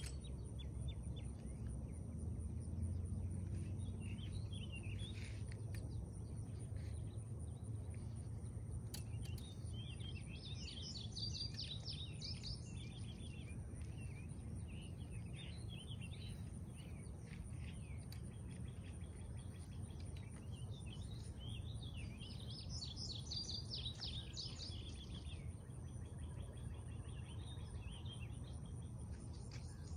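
Songbirds singing and chirping in several bouts, loudest about ten to thirteen seconds in and again about twenty-two to twenty-five seconds in, over a low steady rumble and a thin steady high buzz.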